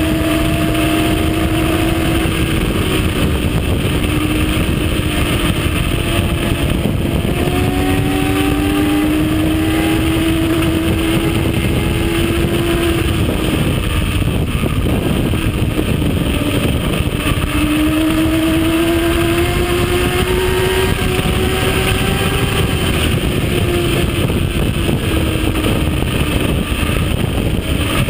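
Yamaha R1 sport motorcycle's inline-four engine running hard at highway speed, buried in heavy wind rush. Its pitch climbs slowly and then drops back several times as the rider changes gear.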